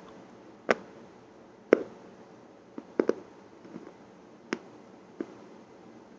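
Sharp, crisp crunches or cracks, about eight of them at irregular spacing, each short and sudden, with a quick double crack about three seconds in.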